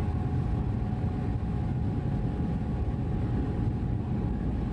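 Passenger ferry's engines running underway: a steady low rumble with a faint steady whine above it.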